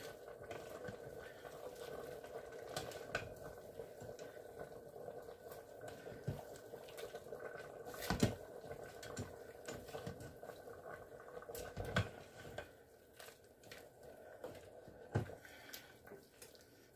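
Chicken-and-noodle broth simmering faintly in an Instant Pot on its sauté setting, over a steady low hum, with a few soft knocks, the loudest about eight and twelve seconds in, as broccoli goes into the pot.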